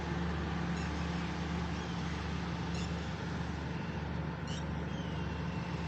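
Steady low background hum with a few faint, short high chirps from small birds, about three seconds in, again about four and a half seconds in, and a short falling whistle near the end.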